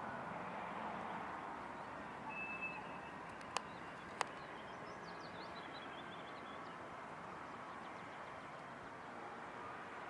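Steady outdoor rushing noise with two sharp clicks about three and a half and four seconds in, followed by a short run of bird chirps.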